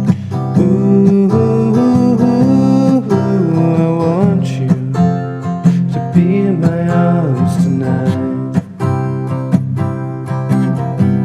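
Instrumental break of a song: acoustic guitar strumming, with a sliding melody line over it for most of the break that drops out near the end, leaving the guitar alone.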